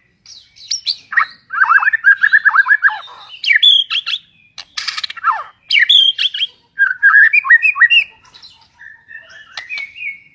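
A songbird singing a fast, varied song of whistled notes, quick sweeps and rapid trills, with a harsh buzzy note about five seconds in and short pauses between phrases.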